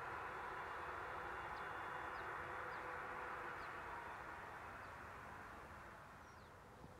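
Rovos Rail passenger coaches rolling slowly along the track, a steady rushing rail noise that gradually fades, with a few faint high bird chirps.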